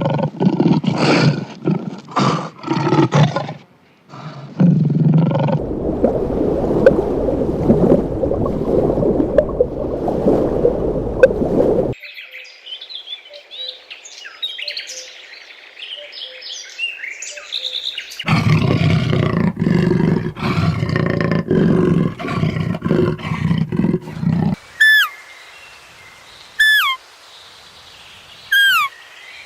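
A run of animal calls: loud, rough calls in pulses, then a long loud noisy stretch. Bird chirping follows, then another burst of pulsed calls. Near the end come a bird's short whistles, repeated several times, each sliding downward.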